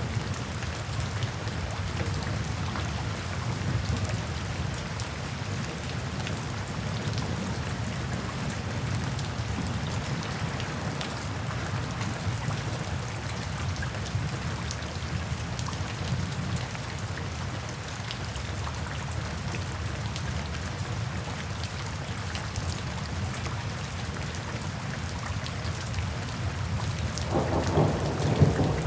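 Steady rain falling, a dense patter of drops over a low rumble. Near the end a louder low swell rises.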